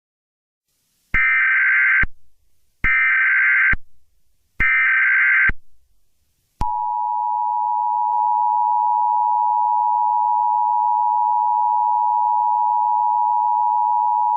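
Emergency Alert System opening sequence: three one-second bursts of SAME header data tones, then the steady two-tone EAS attention signal starting about six and a half seconds in, the sign that an emergency alert message is about to follow.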